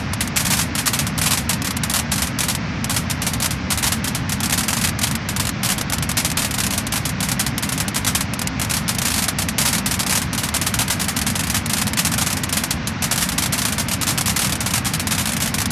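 Wood-burning fire crackling and popping: a dense stream of small sharp pops over a steady low rumble of the flames.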